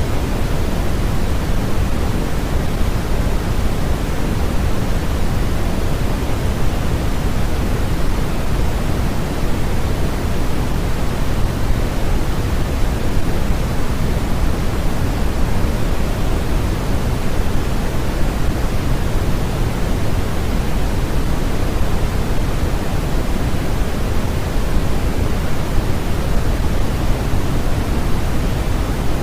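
Steady synthetic noise, sold as white noise for sleep, that stays unchanged throughout. It sounds deeper than true white noise, a rushing hiss with most of its weight in the low end.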